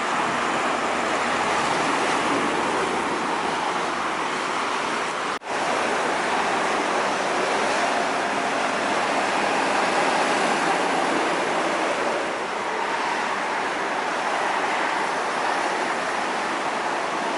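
Steady toll-road traffic noise: tyres and engines of passing trucks and cars blending into a continuous rush, with a sudden brief break about five seconds in.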